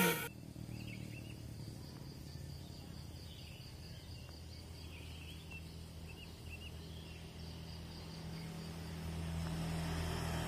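Outdoor ambience: insects trill in a pulsing high band, with a few short bird chirps. A steady low engine hum grows louder over the last few seconds.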